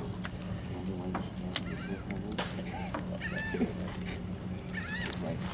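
Birds calling in short, arching honks over a steady low engine hum, with scattered light clicks and scrapes.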